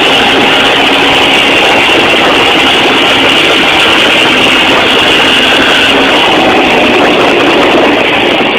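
Suzuki dirt bike engine running under way, loud and steady with no revving up or down.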